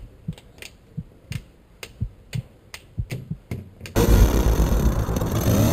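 Faint sharp ticks, about three or four a second, like a timer. About four seconds in, a loud low pulsing drone with a rising whine cuts in suddenly.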